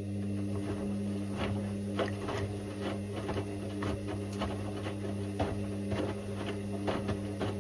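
Indesit IWC6165 washing machine running early in its wash cycle: a steady low hum with frequent, irregular clicks and knocks over it.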